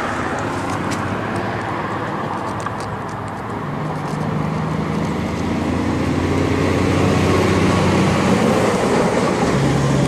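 Motor vehicle engine running close by amid road traffic noise, a steady engine hum that grows louder about four seconds in and again a little later.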